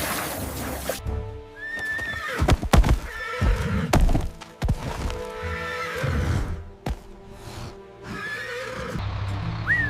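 A horse neighing several times over background music, with a few sharp knocks in the middle.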